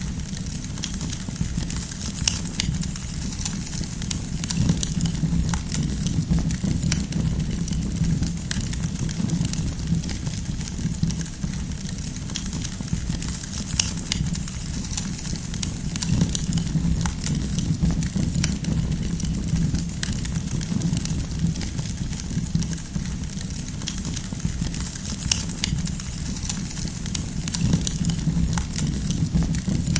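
Wood fire burning with a steady low rumble of flames and irregular sharp crackles and pops from the burning firewood.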